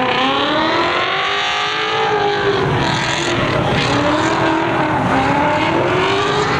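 A car engine revving hard, its pitch climbing for about two seconds, dropping back, then climbing again near the end, over a steady hiss.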